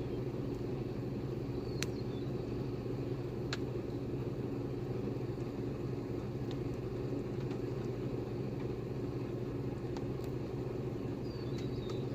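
A vehicle's engine idling with a steady low hum, with a few scattered sharp ticks and faint high chirps over it.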